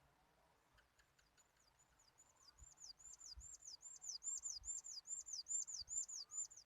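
A bird calling a fast run of repeated high, downward-slurred notes, about four a second. The run starts faintly about a second in, grows louder, and stops abruptly near the end.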